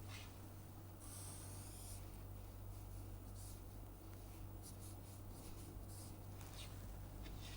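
Faint pen strokes as a graph is sketched by hand: a series of short, scratchy strokes at irregular intervals, over a steady low hum.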